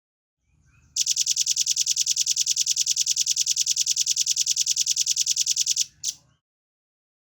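Velvet-fronted nuthatch giving a fast trill of evenly repeated high notes, about ten a second, for nearly five seconds, then one short single note after a brief break.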